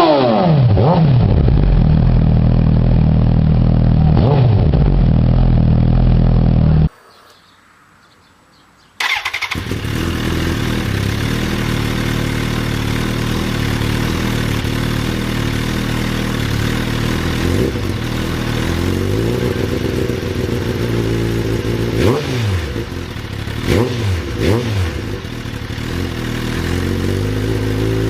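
Suzuki GSX-R1000 inline-four engine and exhaust: revs falling back to a steady idle, then a brief drop to a faint hush about seven seconds in. It idles again with a few short throttle blips near the end.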